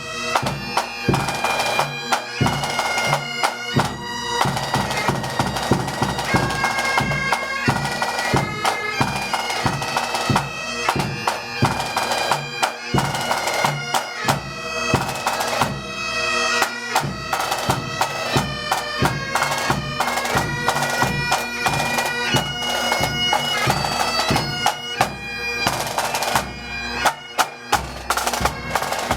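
Pipe band playing a march: bagpipes carry the melody over a steady drone, with snare and bass drums beating time.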